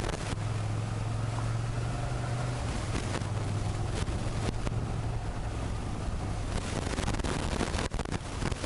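Motorcycle engine running steadily while riding, a constant low drone, with wind buffeting the microphone in short crackles.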